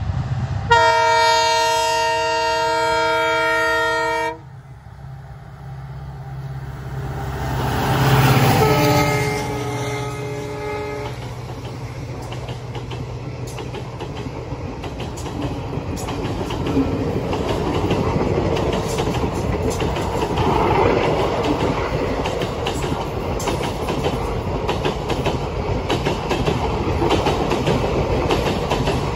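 Indian Railways electric locomotive sounding a long horn blast of about three and a half seconds as it approaches, then a second, shorter blast as it passes about eight seconds in. Then the express's coaches roll by with a steady rumble and the clickety-clack of wheels over rail joints.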